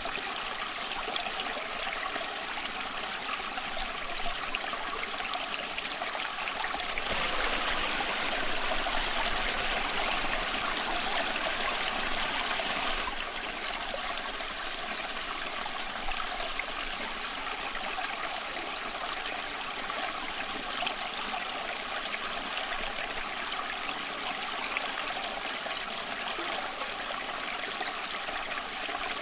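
Small stream flowing steadily, its water trickling and babbling over stones. The flow swells louder for several seconds about a quarter of the way in, then settles back.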